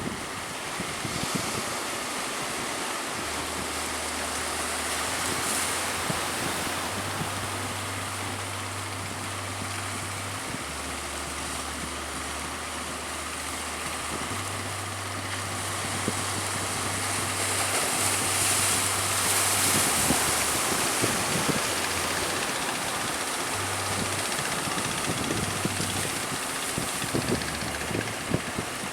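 Strong wind blowing across the microphone over open sea waves, gusting louder about two-thirds of the way in, with a low engine hum underneath.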